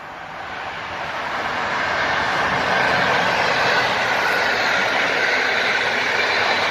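Electric-hauled intercity passenger train passing close by: steady rolling noise of the wheels on the rails that grows louder over the first couple of seconds as the locomotive draws near, then holds level as the carriages go by.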